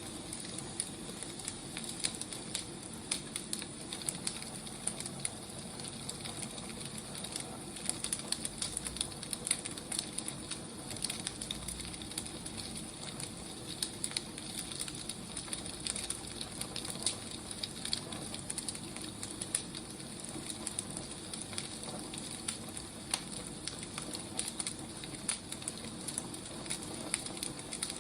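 Wood fire burning, crackling steadily with many small irregular pops and snaps over a soft hiss.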